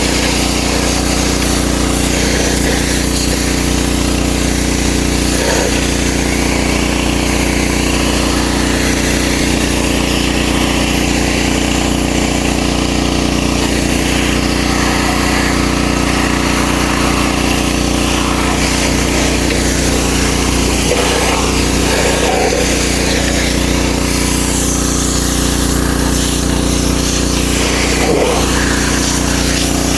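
Ryobi 3300 PSI gas pressure washer running steadily, its 212cc engine under load, with the hiss of the high-pressure water jet spraying.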